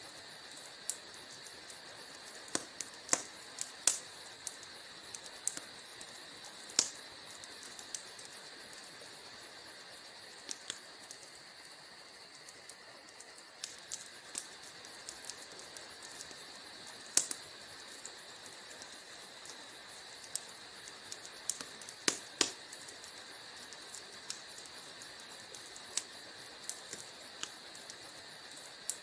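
Wood fire crackling in a fireplace: irregular sharp pops and snaps, a few of them much louder, over a steady high hiss.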